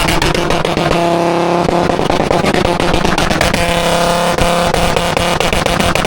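Car engine revved hard and held at high rpm, very loud, with the pitch held steady for stretches about a second in and again around four seconds in.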